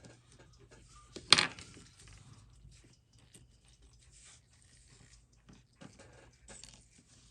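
Small handling noises from a watch case and tools on a workbench: one sharp click a little over a second in, then faint scattered clicks and rustles, over a low steady hum.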